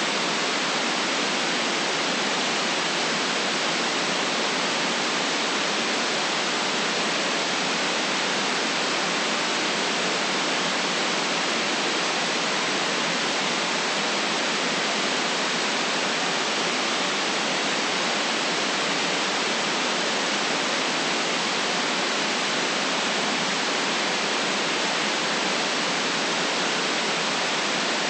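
Continuous white noise: a steady, even hiss that never changes in level, with no deep bass and no highest treble.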